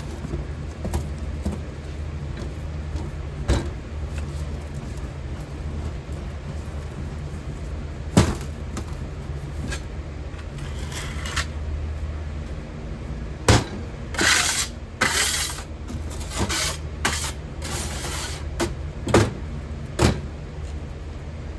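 A steady low machine hum with scattered sharp knocks, and a few short scraping hisses of hand work clustered in the second half.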